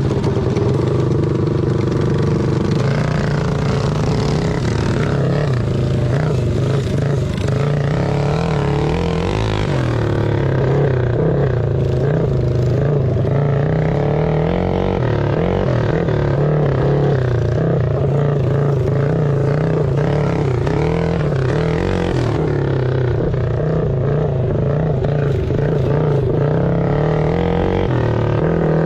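Several small single-cylinder mini bike engines running together and revving up and down, their pitches wavering and overlapping.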